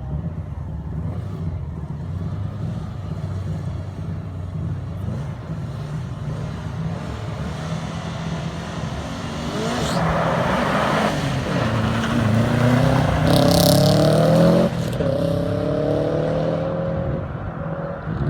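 Subaru Impreza WRX STI rally car's turbocharged flat-four engine running with a low rumble, then revving up and getting louder with rising pitch from about halfway through. The loudest stretch breaks off suddenly a few seconds before the end, and the engine runs on more faintly.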